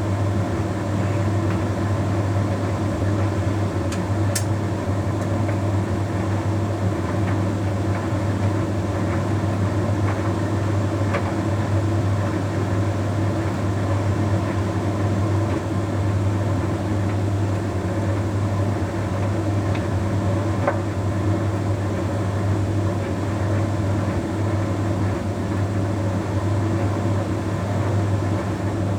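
Bosch Series 6 WQG245R9GB heat pump tumble dryer running: a steady hum with a strong low drone and several steady tones. A couple of faint ticks come through, one about four seconds in and one about twenty seconds in.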